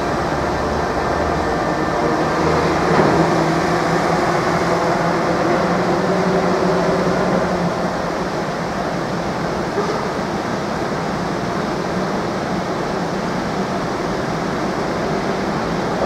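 Electric-hauled intermodal freight train passing, with a steady rumble of wagons rolling on the rails. A low hum from the locomotive fades about halfway through.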